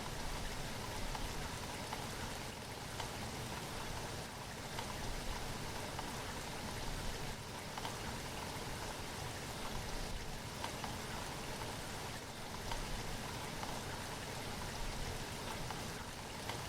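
Steady rain falling, a continuous even patter of drops with no change in strength.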